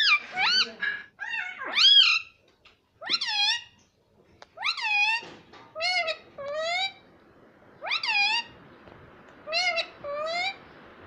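Ringneck parrot calling in a series of short drawn-out notes, each rising then falling in pitch, several coming in close pairs.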